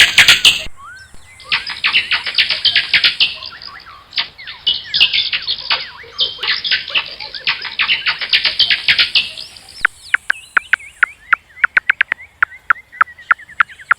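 Bats squeaking and chittering: dense, rapid clicks and high chirps, then from about ten seconds in a run of quick downward-sweeping chirps, a few each second.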